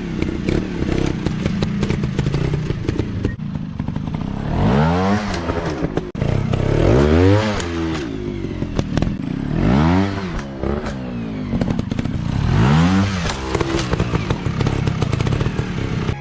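Off-road dirt bike engine running and revving up and falling back about four times, with knocks and rattles throughout.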